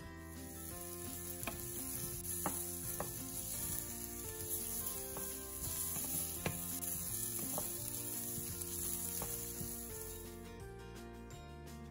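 Sliced carrots with chopped garlic and ginger sizzling in a stainless-steel skillet, with a utensil clicking and scraping against the pan now and then as they are stirred. The sizzling stops suddenly near the end.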